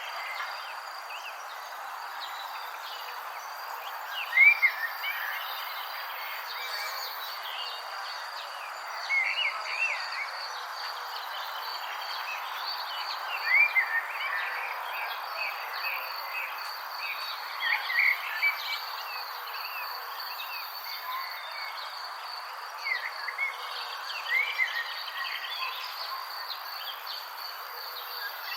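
Insects trilling steadily at a high pitch over a soft even hiss, with short bird chirps every few seconds.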